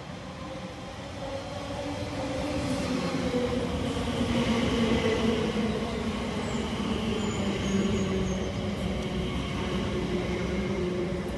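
A train running through the station, growing louder over the first few seconds, with a steady whine of several tones that slowly falls in pitch over the rumble of the running gear.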